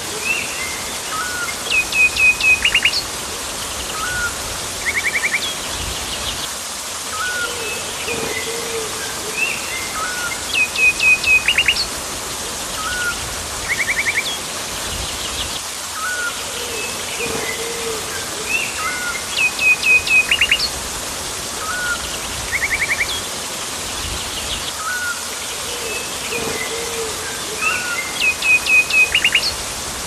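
Several tropical birds calling over a steady background hiss: falling whistled notes, a short rapid trill, brief higher chirps and a lower call. The same run of calls comes round again about every nine seconds.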